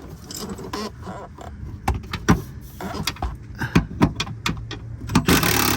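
Socket wrench working a 13 mm bolt loose: irregular metallic clicks and clinks, with a brief rasping stretch about five seconds in.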